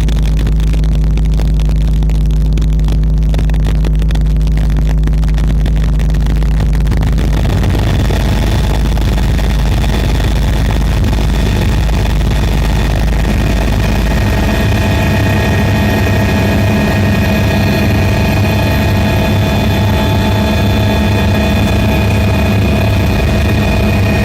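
Camera drone's motors and propellers giving a loud, steady whine. A deep rumble sits under it for the first few seconds, and the pitch shifts slightly about halfway through.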